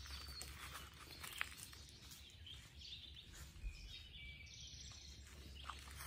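Wild birds chirping and singing faintly, short calls coming and going, over a low steady rumble and a few soft clicks.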